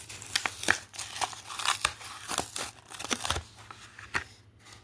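A toy car's plastic blister pack and card backing being pried and torn open by hand, giving a quick irregular run of sharp crinkles and cracks.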